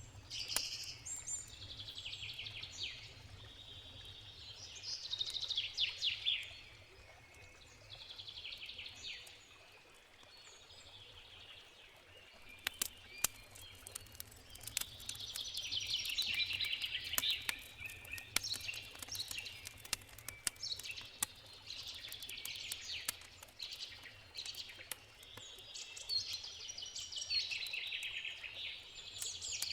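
Songbirds singing in repeated trilled phrases every few seconds, over the scattered sharp pops and crackles of a wood campfire and a steady low rush of a river.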